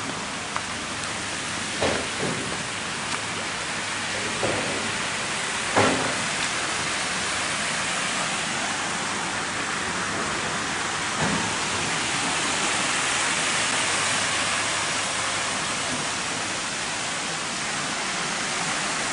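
Large artificial rock waterfall pouring into a pond: a steady rush of falling water. A few short thumps come through in the first six seconds, the loudest about six seconds in.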